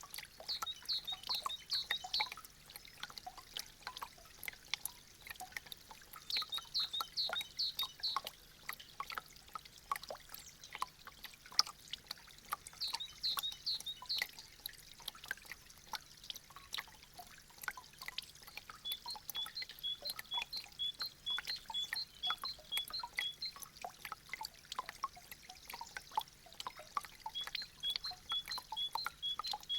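Meltwater dripping from thawing icicles: many irregular drips and small splashes with a light trickle. Bouts of rapid high chirping come and go several times, and in the second half a run of high ticking notes repeats about four times a second.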